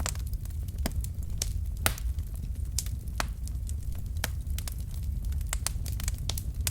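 Wood fire in a fireplace: burning logs crackling, with sharp irregular pops several times a second over a steady low rumble of flame.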